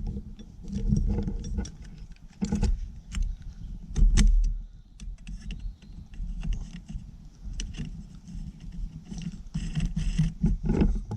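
Metal parts of a collapsible tube saw clicking and clinking as it is handled and fitted together, with the blade tensioned. Irregular sharp clicks over a low rumble of handling noise, with a louder bump about four seconds in.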